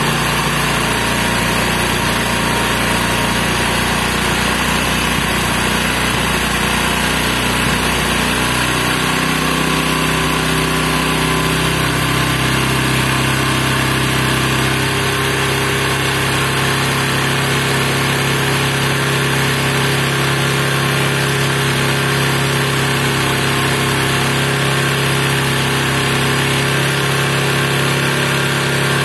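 Bajaj Discover's single-cylinder engine idling steadily while the carburetor air screw is backed out from fully tight. The idle note shifts about a third of the way in, then settles as the mixture is set.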